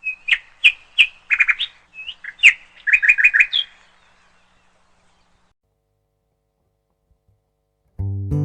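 Bird chirping: a quick series of short, sharp chirps and trills for about three and a half seconds, then silence. Strummed acoustic guitar music starts near the end.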